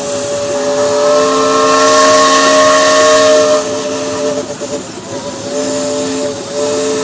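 Steam traction engine's whistle blown long, a chord of several notes over the hiss of escaping steam. It is loudest for the first few seconds, softens about halfway, breaks off briefly near the end, then sounds again.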